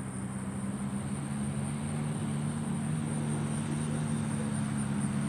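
Distant dirt bike engines running at a steady pitch, slowly growing louder.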